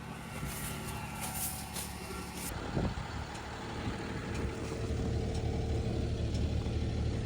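Engine of farm machinery running steadily, growing louder and heavier about halfway through as it takes on work.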